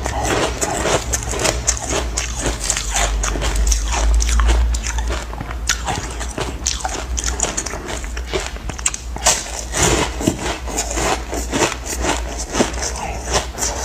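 Close-up crunching of hard ice chunks being bitten and chewed, with quick cracks and crackles throughout.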